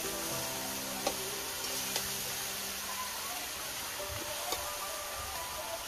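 Bottle gourd pieces sizzling in hot oil in an iron karahi over a wood-fired clay stove, a steady frying hiss broken by a few sharp clicks.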